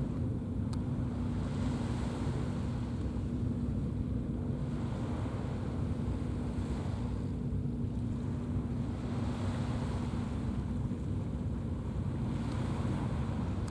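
Sea water washing, surging every few seconds, over a steady low engine drone from a vessel, with wind buffeting the microphone.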